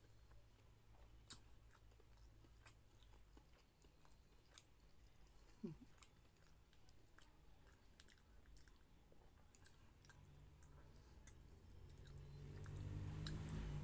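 Faint close-up mouth sounds of a person chewing soft food (rice and pork menudo) with the mouth closed: soft wet clicks and smacks, with one brief squeak about halfway through. A low hum builds up near the end.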